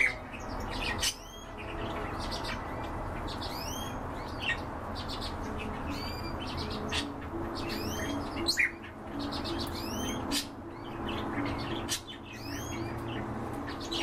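Several cage birds calling in short, sharp, high chirps, one or two each second, many sweeping steeply up and then falling.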